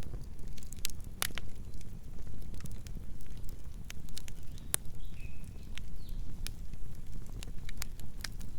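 Burning logs crackling, with irregular sharp pops and snaps over a low steady rumble of the flames. A faint short whistle comes about five seconds in.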